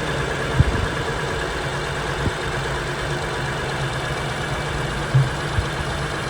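A 2007 Ford Freestar's 4.2-litre V6 idling steadily, with several irregular low pops a second or more apart coming from the air box, a gurgling popping. It is the sign of a failing idle air control valve.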